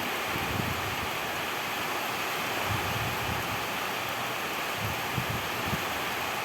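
Steady rain falling, an even hiss, with a few low rumbling thumps in places.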